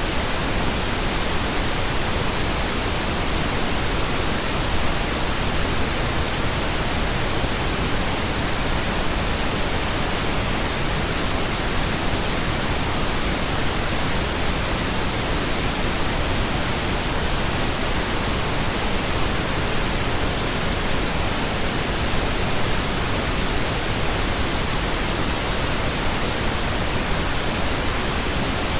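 Steady pink noise: an even, unchanging hiss across the whole range, with no other sound.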